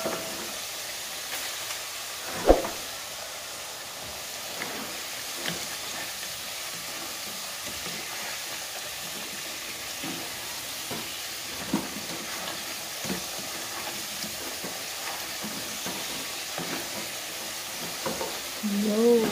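Sweet potato slices frying in hot oil and caramelizing sugar in a pan: a steady sizzle, with a few knocks of a wooden spatula against the pan as the pieces are turned, the sharpest about two and a half seconds in.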